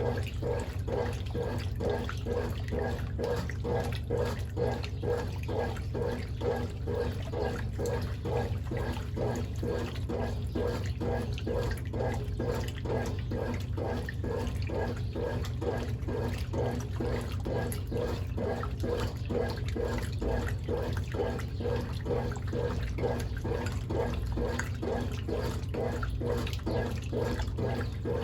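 Brastemp Ative 11 kg washing machine agitating a load in water: steady rhythmic sloshing, pulse after pulse, over a low motor hum.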